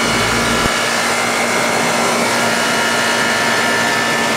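Outdoor condensing unit of a 10-ton York split air-conditioning system running: a steady rush of condenser fan air with a constant hum and whine over it. A brief low rumble sounds at the very start.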